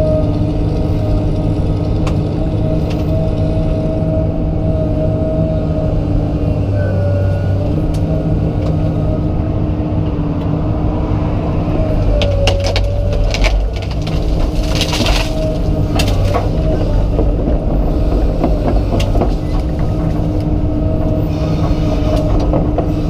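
Komatsu PC200 excavator's diesel engine running steadily under hydraulic load. About halfway through, a run of sharp cracks and snaps of wood breaks in as a tree is broken.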